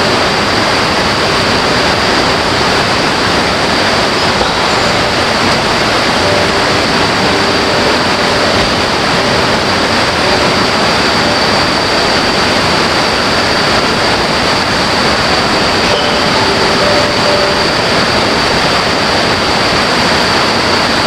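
Rushing river water: a loud, steady, unbroken rush, with a thin high-pitched tone held steadily above it.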